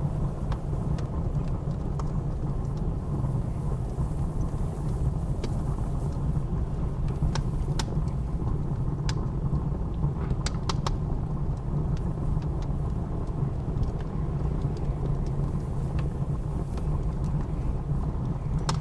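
Wood fire crackling in a fireplace, with a dozen or so scattered sharp pops over a steady low roar of blizzard wind.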